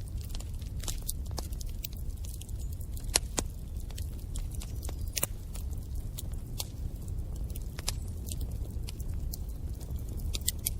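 Bonfire burning: a steady low rumble of flames under irregular sharp crackles and pops, with one louder pop about three seconds in.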